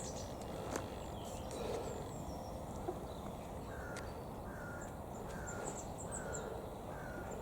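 Wild birds calling: a run of short, down-slurred calls repeated about once a second, with thin high chirps in between, over a steady outdoor hiss.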